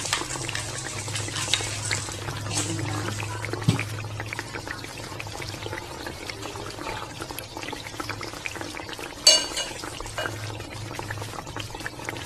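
Sauce simmering in an aluminium wok around a whole chicken, a steady fine crackle of small bubbles over a low hum. About nine seconds in there is a short, loud ringing clink.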